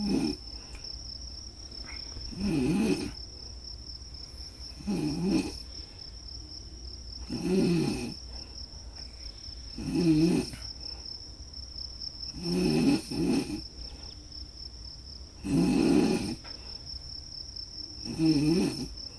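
A person snoring slowly and regularly, one snore about every two and a half seconds, over a steady high trill of crickets.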